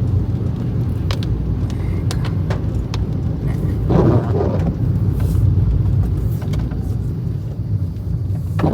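Car on the move, heard from inside the cabin: steady low engine and road rumble, with a brief louder patch about four seconds in.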